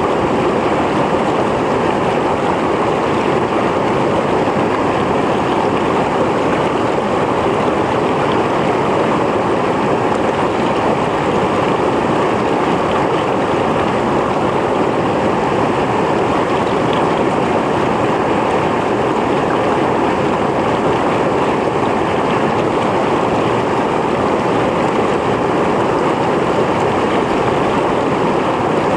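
Mountain stream flowing over rocks: a steady, unbroken rush and gurgle of water.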